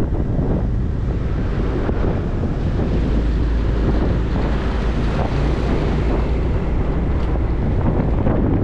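Wind buffeting the microphone of a motorcycle-mounted camera while riding, a steady rushing noise with the motorcycle's engine and road noise underneath.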